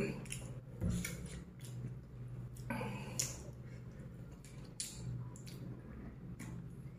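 Quiet chewing of crispy fried chicken, with a handful of scattered wet clicks and smacks from the mouth and from fingers pulling at the coated drumstick.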